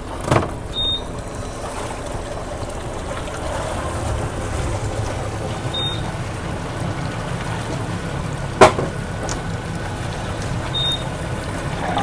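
Dive boat's engine running steadily at idle, with a sharp knock about two-thirds of the way through.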